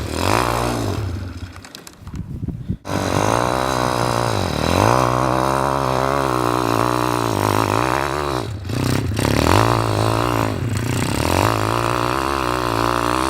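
Pit bike's single-cylinder engine revving up and down over and over as it is ridden. About a second in the throttle is shut and the engine drops low with a few pops, then it picks up and revs on.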